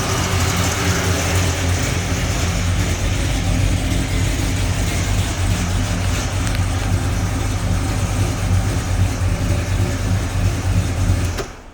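Supercharged 6.2-litre LSA V8 with long-tube headers idling steadily, then switched off and stopping abruptly near the end.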